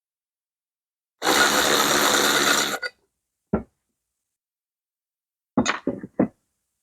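Ratchet wrench spinning in a fast run of clicks for about a second and a half, then a single click and a few short metallic knocks of tools or parts.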